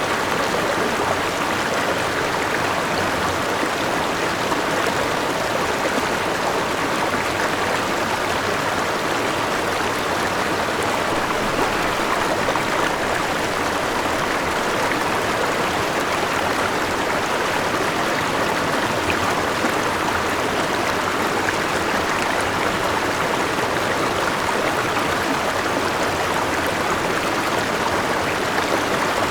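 A forest river rushing and splashing over rocks with a small waterfall, a steady, unbroken rush of water.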